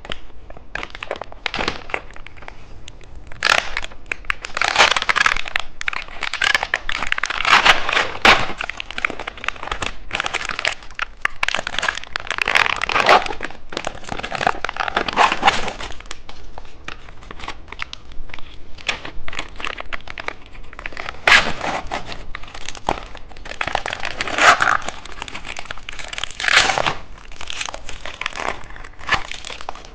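Plastic candy packaging being opened and handled: irregular crinkling and crackling with sharp clicks, coming in louder flurries.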